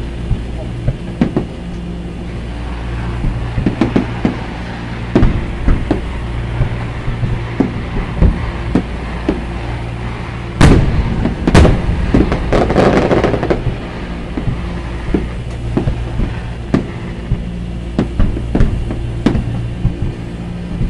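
Aerial fireworks shells bursting in an irregular series of bangs and pops. The two loudest reports come about ten and a half and eleven and a half seconds in, followed by a couple of seconds of crackling. A steady low hum runs underneath.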